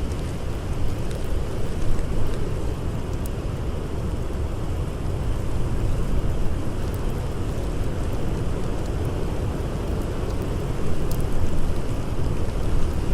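Steady, low rumbling blizzard wind, swelling a little in gusts near the end, with a few faint crackles from a campfire.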